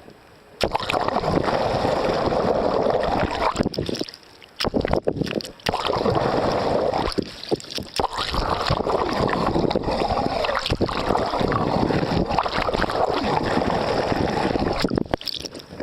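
Water rushing past a sailboat's hull in surges a few seconds long, with wind on the microphone.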